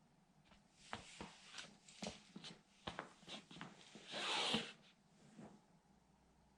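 Plastic toy military truck cracking and creaking under a sandal: a run of sharp clicks and snaps, then a short scraping rasp about four seconds in.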